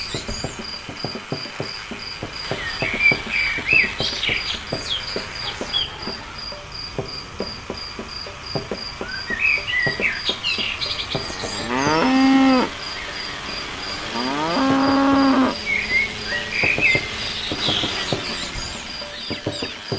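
A cow mooing twice, each moo about a second long, over a steady pulsing insect chirp and scattered bird chirps. Many small clicks and taps are heard in the first half.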